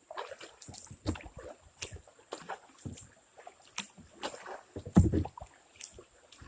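Kayak paddling through river shoals: irregular paddle strokes and splashes with knocks against the hull, and a heavy thump about five seconds in.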